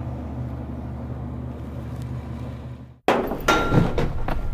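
Car engine idling with a steady low hum, fading out about three seconds in. Then a burst of clunks and knocks from a door and footsteps in a small room.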